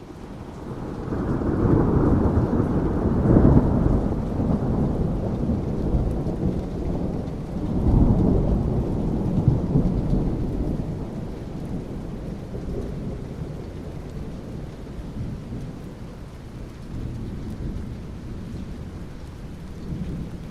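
Thunder rumbling over steady rain. The rumble swells about two seconds in, peaks again at about eight seconds, then rolls on and slowly fades.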